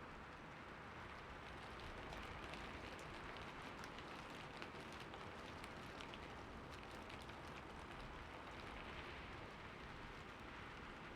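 Steady rain falling, a soft even hiss with many single drops ticking through it, the drops thickest in the middle.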